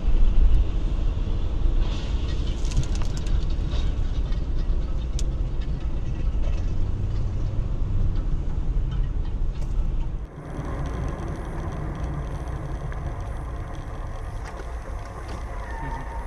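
Vehicle driving noise: a loud low rumble of engine and road, with a few faint clicks, that changes abruptly about ten seconds in to a steadier, quieter hum.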